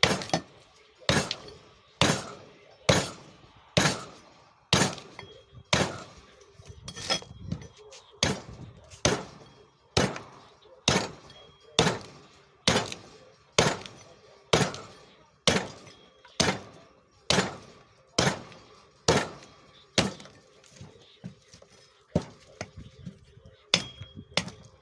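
An axe hewing a rowan burl into a rough shoe-last blank, about one sharp chop a second. Near the end the chops come quicker and lighter.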